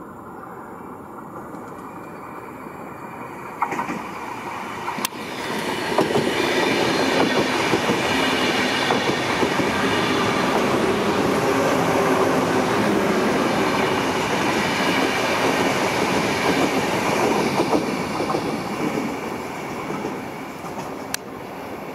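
Renfe Class 449 electric multiple unit passing along the platform, its wheel and rail noise swelling over a few seconds, staying loud for about twelve seconds, then fading as the train moves away.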